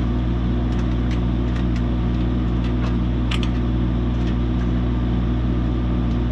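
An engine idling steadily with a constant low hum, with scattered light clicks and knocks of tools and parts being handled.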